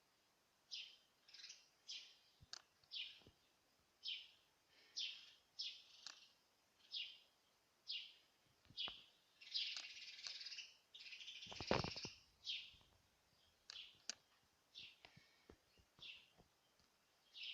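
A small bird chirping: a string of short, high chirps about once a second, with two fuller bursts of twittering around the middle. A low thump comes with the second burst.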